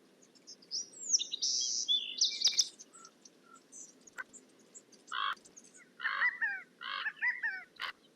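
Birds calling: a burst of high chirps and whistles in the first few seconds, then a run of harsher repeated calls in the last three seconds, over a faint steady low background noise.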